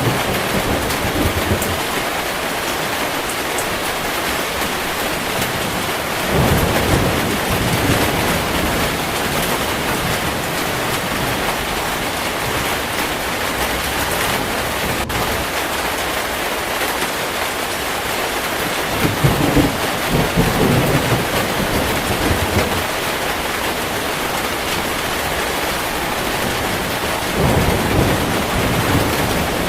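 Heavy rain falling steadily, with thunder rolling in low, three times: about a fifth of the way in, past the middle, and near the end.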